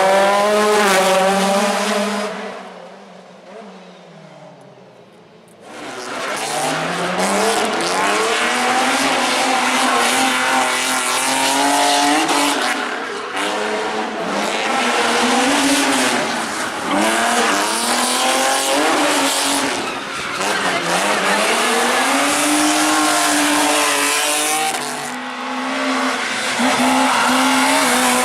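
Rally cars at full throttle, engines revving up and dropping back through gear changes, with tyre squeal. The sound falls away a couple of seconds in, then comes back loud about six seconds in.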